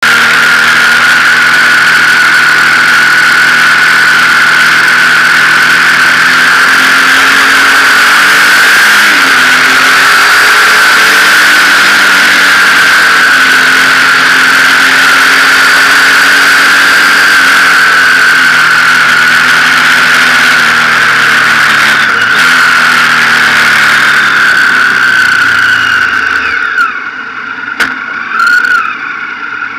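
Motorcycle engine running on the move, its note rising and falling with the revs, under a steady high whistle. The engine sound drops away a few seconds before the end.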